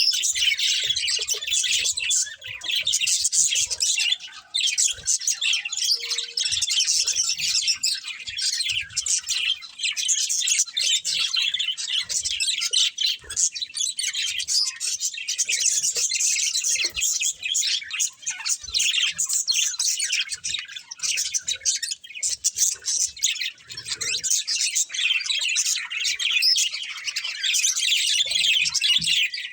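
Budgerigars chirping and chattering continuously, a dense flock of overlapping high-pitched chirps with occasional squawks.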